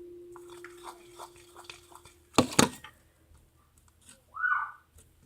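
Glue-and-Tide slime mixture being stirred with a fork in a bowl, giving soft sticky clicks. Two loud knocks come about halfway through. A steady low hum sounds in the first half, and a short squeal comes near the end.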